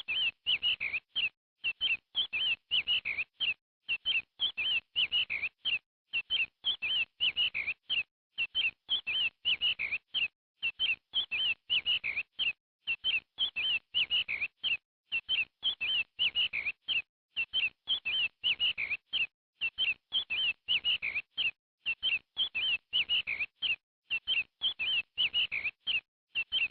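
Quail calling: short, quick notes in phrases of a few notes each, the phrase repeated over and over about once a second, with silence between phrases.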